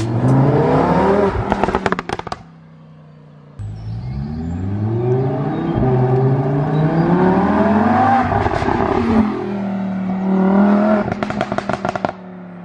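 Lamborghini Huracan's V10 running through an iPE valved exhaust, accelerating hard: the engine note climbs in long sweeps and drops back at each shift. Bursts of crackling pops come off the throttle about two seconds in and again near the end, with a brief quieter lull in between.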